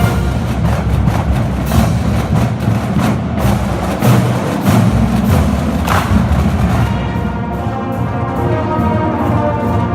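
Combined marching bands playing live: sharp percussion hits punctuate the music for the first several seconds, then the brass settle into sustained chords.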